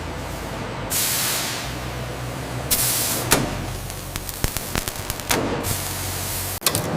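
Factory machinery sounds: a steady low machine hum with two loud bursts of hissing, like air being released, about a second in and again past the middle, and a run of sharp clicks and knocks in between.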